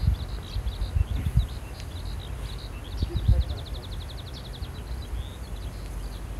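Small birds chirping over and over, with one fast trill of quick repeated notes about midway. Wind buffets the microphone with irregular low rumbles.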